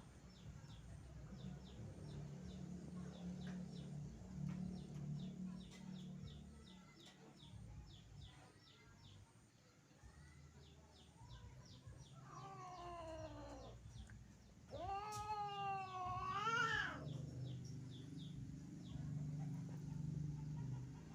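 A cat meowing twice: a shorter falling call about twelve seconds in, then a longer, louder one that rises and falls.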